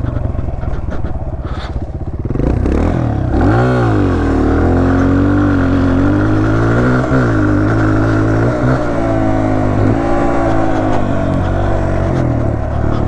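Dirt bike engine running hard. About two and a half seconds in its revs climb, then rise and fall repeatedly as the throttle opens and closes.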